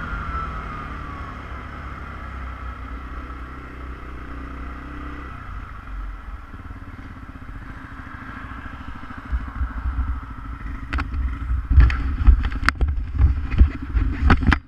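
ATV engine running, its pitch falling over the first couple of seconds as it slows, then running low and steady. From about nine seconds in, a series of loud knocks and rumbles sounds over the engine.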